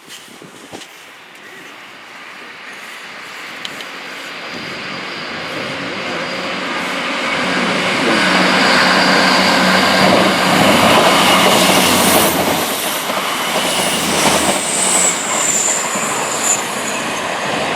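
Passenger train approaching and passing: the rumble of its wheels on the rails grows steadily louder for about eight seconds, then holds loud. A brief high wheel squeal comes near the end.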